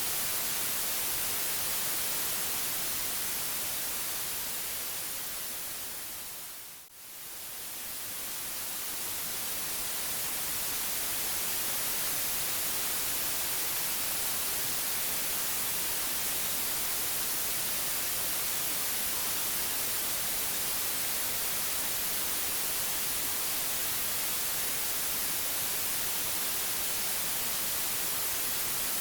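Steady white noise hiss, even across the range and brightest in the highs. It fades down to a brief dip about seven seconds in, then swells back to full level over the next few seconds.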